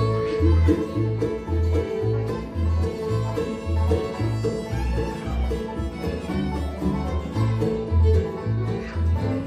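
Bluegrass band playing an instrumental intro at a lively tempo: banjo, fiddle and guitar over a bass alternating between two notes on the beat.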